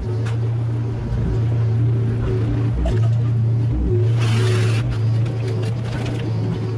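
Mini excavator's diesel engine running under changing load as it works, with a brief hiss about four seconds in.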